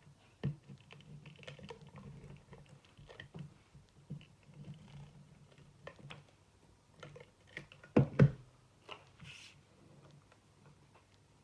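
Paper and card being handled and pressed down on a craft table: scattered light taps and clicks with some rustling, and two loud knocks close together about eight seconds in.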